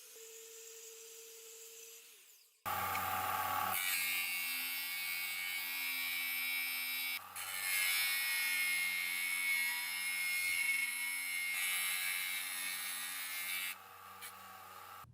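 A power tool running steadily for about eleven seconds, with a loud hiss and a steady whine. It starts and stops abruptly, with a brief break in the middle.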